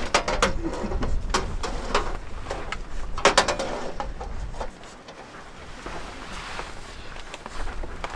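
Irregular knocks and clatters of camping gear being handled, a few of them ringing briefly. A low rumble underneath drops away about halfway through.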